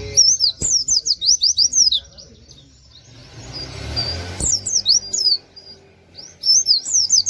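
A pleci (white-eye) singing: three bursts of quick, high, down-slurred whistled notes with short pauses between them, breaking into a fast trill at the end.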